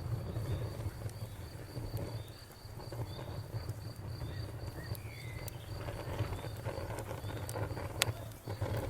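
Campfire burning with a low rumble and scattered crackles, one sharp pop about eight seconds in. Under it runs a steady, rapidly pulsing high insect trill, with a few short bird chirps.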